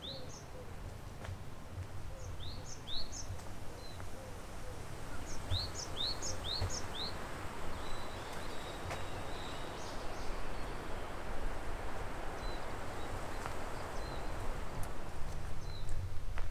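A small bird calling: groups of three or four quick rising chirps, mostly in the first half, over a steady outdoor hiss with low thuds underneath.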